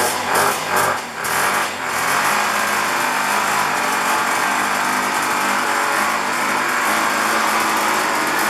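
1965 Sears Allstate 175 motorcycle's small two-stroke engine running, revved in a few uneven blips for about the first two seconds, then holding a steady fast run. It is running for the first time after sitting for decades, its gummed-up carburetor and points freshly cleaned.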